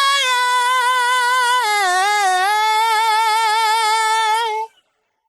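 A solo singer's voice, isolated with no accompaniment, holding one long note with a wavering vibrato. The note slides down in pitch about two seconds in, rises slightly, and then cuts off abruptly.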